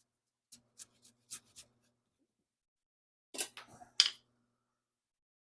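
Cardboard template being pressed and rubbed against the sheet-metal edge of a car's rear wheel-arch cutout to mark it: a few light taps and scuffs, then a louder cluster of handling noise ending in a sharp click about four seconds in.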